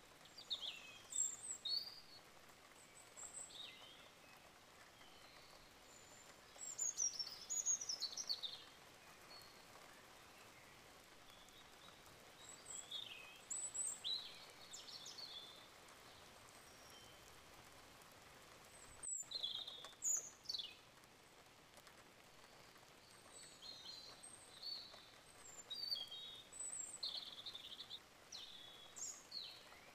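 Small birds chirping and singing: scattered short high calls and quick falling notes over a faint steady hiss. The sound cuts out for an instant a little past halfway.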